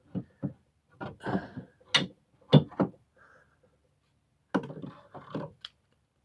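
Hatchets being hung on a wooden pallet-wood rack: a series of knocks and clunks of the tools against the wood, the sharpest about two and a half seconds in.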